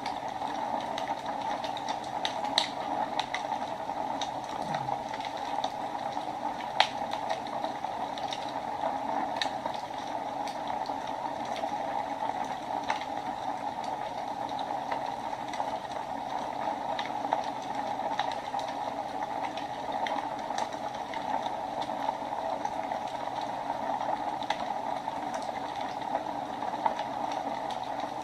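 Wood fire burning in a fireplace: a steady hiss with irregular sharp crackles and pops, one standing out about seven seconds in.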